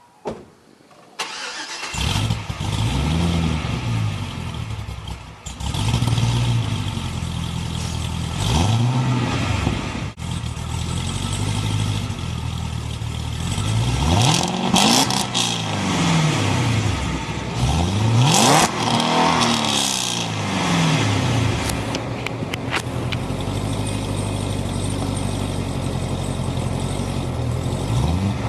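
2009 Cadillac CTS-V's supercharged 6.2-litre V8 starting up about a second in, then idling with several throttle blips that rise and fall in pitch, before settling back to a steady idle. The exhaust runs without primary catalytic converters (B&B test pipes) but through the stock mufflers, with the secondary cats still in place.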